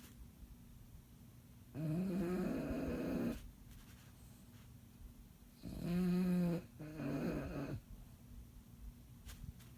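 Sleeping bulldog snoring: two loud, buzzing snores about four seconds apart, the second broken by a brief catch midway, with quiet breathing between.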